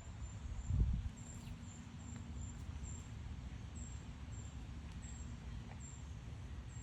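Outdoor summer ambience: a faint, high insect chirp repeating about twice a second over a steady low rumble, with one low thump about a second in.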